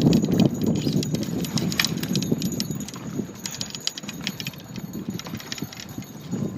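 Wind buffeting the microphone, a low rumble, with light clicks and knocks scattered through it.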